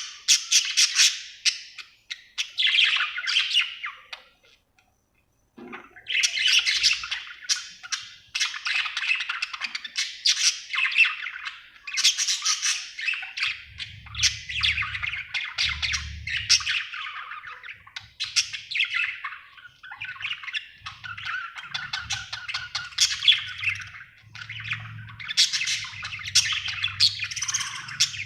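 Budgerigar chirping and chattering in a rapid, busy warble, with a short pause about four seconds in. A faint low hum runs underneath during the second half.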